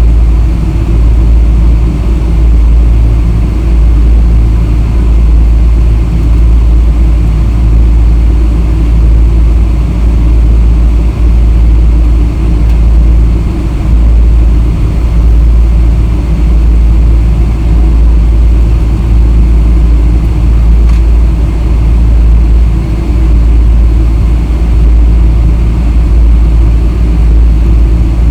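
Boeing 777-300 airliner heard from aboard, a steady deep rumble of jet engines and airframe noise with no clear rise or fall.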